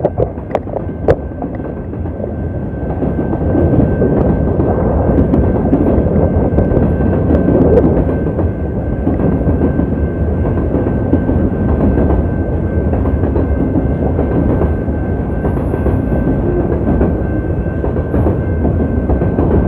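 Freight train cars rolling steadily past with a loud rumble of wheels on the rails, a few sharp clanks in the first second, and a thin steady high tone above the rumble.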